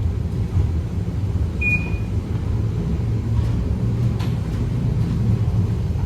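Heritage tram running, a steady low rumble with a short high-pitched tone about a second and a half in and a faint click or two later.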